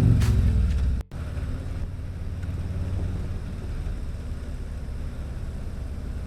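Intro music cuts off about a second in, then a motorcycle engine runs steadily with a low-pitched hum and some road noise.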